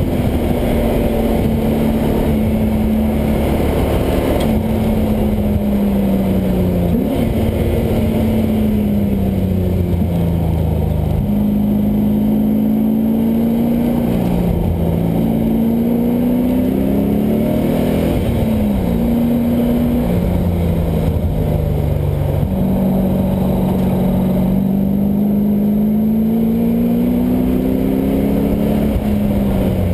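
LS1 V8 engine of a swapped Mazda Miata at full track pace, its note climbing under acceleration and dropping repeatedly as it shifts and lifts for corners.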